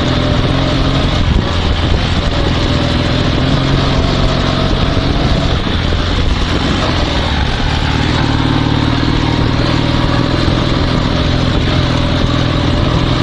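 Dnepr 16 sidecar motorcycle's boxer twin engine running while riding, its pitch dipping around six seconds in and rising again a couple of seconds later.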